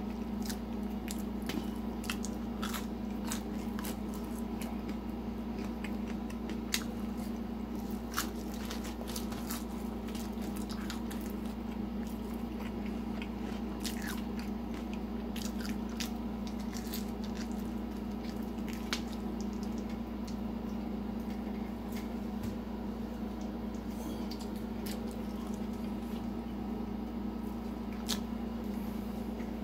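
Close-up chewing and biting of thin-crust pizza squares, with irregular sharp crunches throughout. A steady low hum runs underneath.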